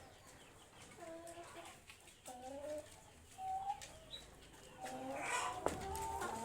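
Broiler chickens clucking, a series of short separate calls that grow busier towards the end, with one sharp click near the end.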